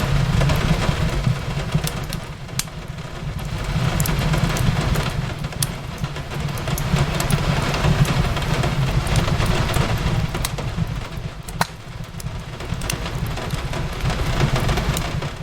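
Wood fire crackling, with scattered sharp pops, over a steady low rumble and the even hiss of rain.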